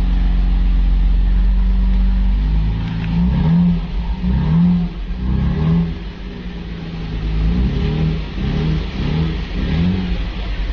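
Nissan Skyline R34 GT-R's 2.6-litre twin-turbo inline-six (RB26DETT) idling steadily, then revved in a series of short throttle blips, each rising and falling, from about three seconds in.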